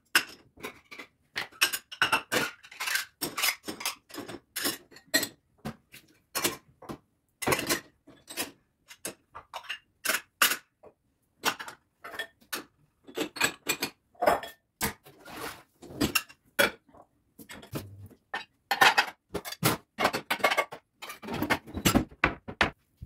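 Dishes and cutlery clinking and clattering in quick, irregular succession while washing up and handling dishes in a kitchen.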